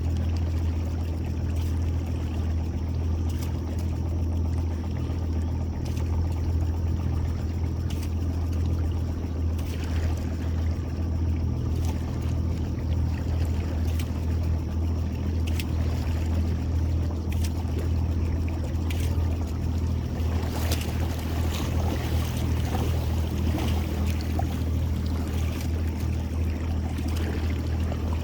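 Boat motor running steadily at low speed, a constant low hum, with water noise and a few light clicks.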